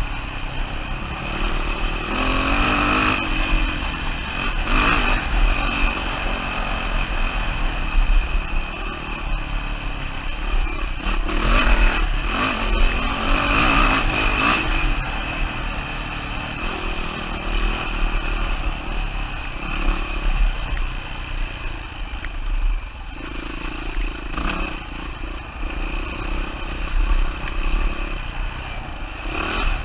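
2007 Yamaha WR450F's single-cylinder four-stroke engine running under way, its pitch rising and falling with the throttle.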